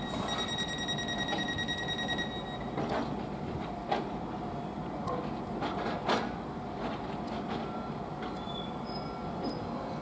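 Greater Anglia electric multiple unit at the platform: a steady rumbling hum with a high whine that stops about two and a half seconds in, then a few sharp clanks about three, four and six seconds in.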